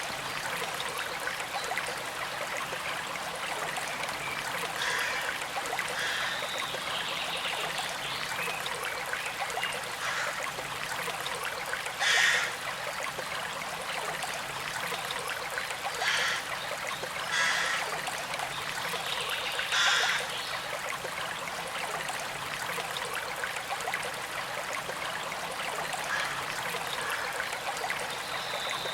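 Small creek flowing steadily with a gentle trickle, with a few brief louder splashes in the middle stretch.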